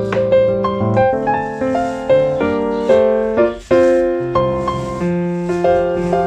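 Background piano music: notes struck in a flowing pattern, with a brief drop in level about three and a half seconds in.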